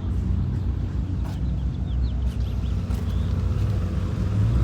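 A car engine running at low revs, a steady low rumble that grows a little louder near the end, with a few brief bird chirps about two and a half seconds in.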